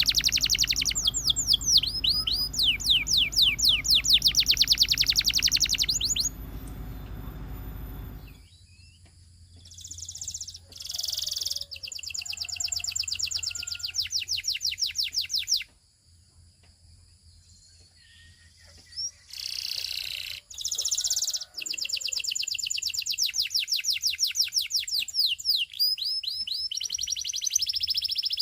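Canary singing in fast trills of rapidly repeated sweeping notes, broken by a few short pauses. A low hum runs under the song for the first eight seconds or so.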